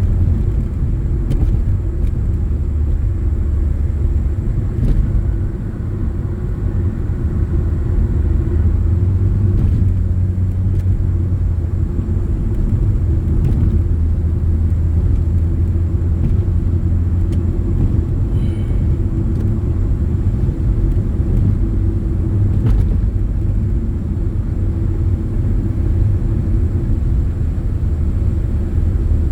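Car driving, with a steady low engine and road rumble as heard from inside the cabin.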